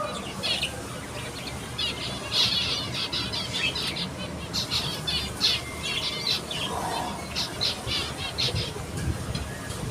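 Aviary budgerigars chattering and squawking in quick, busy bursts of short chirps, thickest in the middle of the stretch.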